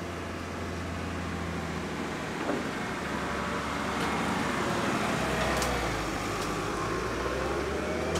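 Mercedes-Benz G-Class running at low speed as it crawls over a ribbed steel ramp: a steady low engine hum with a few faint clicks from about four seconds in.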